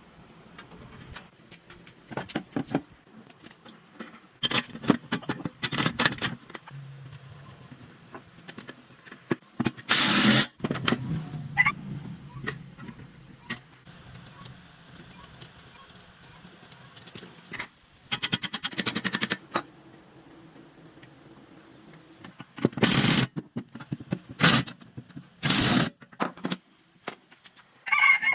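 Intermittent workshop sounds of hand work on metal minibike parts: scattered clicks and knocks, several short noisy bursts about a second long, and a rapid run of clicks about two-thirds of the way in.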